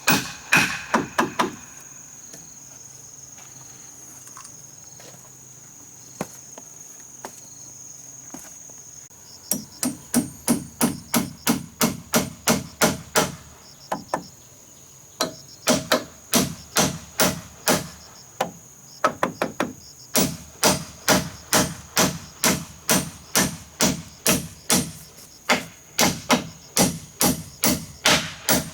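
Rapid, even hammer blows, about three a second, in runs of several seconds broken by short pauses, with one longer pause early on.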